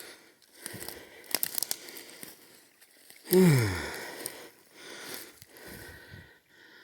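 Footsteps crunching and crackling through leaf litter and twigs, with a short falling grunt from the walker about three and a half seconds in.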